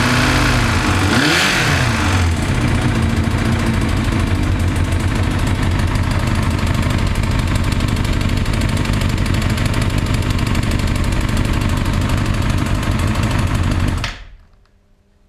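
Kawasaki Balius 250 inline-four engine running with the abnormal engine noise that the owner puts down to the cam chain. Its speed briefly dips and recovers about a second in, and near the end the engine is switched off and cuts out abruptly.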